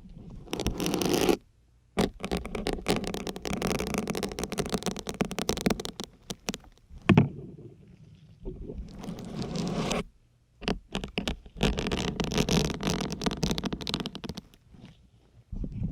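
Syringes pushed one after another into a dense grey sponge, each push a crackly, squeaky scrape ("뿌욱"). The pushes come in several separate runs of a second to a few seconds, with short pauses between them.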